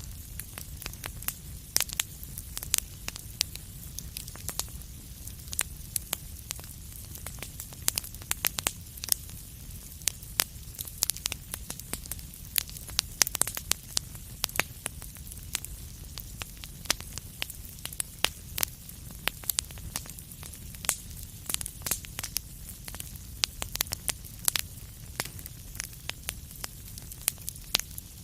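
Wood fire crackling: a steady low rumble and hiss of flames with many sharp, irregular pops and snaps.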